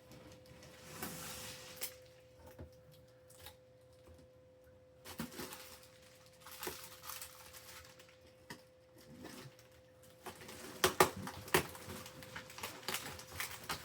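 Packing tape being peeled and torn off a cardboard box, with plastic wrap crinkling and scattered knocks of handling; the sharpest snaps come about eleven seconds in.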